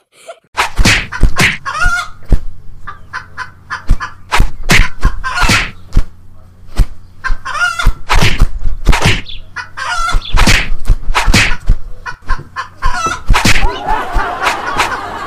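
Chickens squawking loudly over and over, two or three harsh calls a second, over a low steady hum. The calls begin about half a second in.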